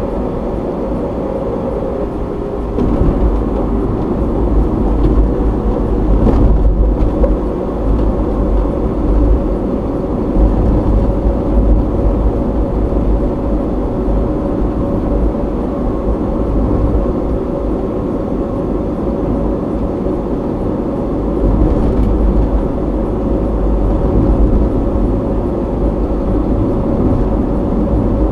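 A car driving on a road, recorded inside the cabin by a dashcam: a steady hum of engine and tyre noise that grows a little louder about three seconds in.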